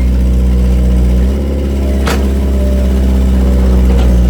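Excavator's diesel engine running steadily, its note rising slightly a little over a second in, with a sharp clank about two seconds in.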